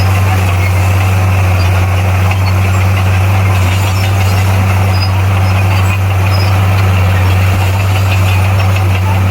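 Bulldozer's heavy diesel engine running at a steady speed, a loud constant low hum.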